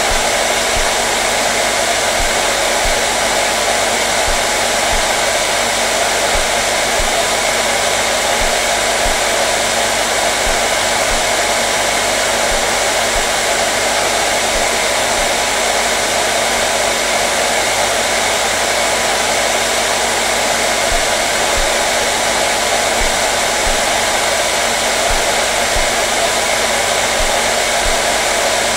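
Hair dryer running steadily, a constant loud airy rush with a steady motor hum, unchanging throughout.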